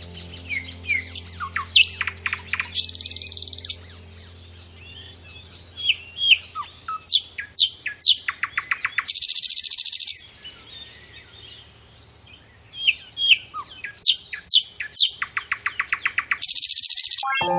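A songbird singing the same song phrase three times: a few clear sweeping notes, a quickening run of short notes, and a high buzzy trill to close each phrase. A faint low hum runs underneath.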